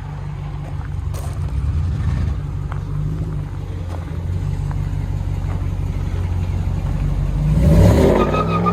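2017 Ram 1500's 5.7-litre Hemi V8 exhausting through a Flowmaster Outlaw muffler with the factory resonators kept on, running with a steady deep rumble. Near the end the revs swell and climb in pitch.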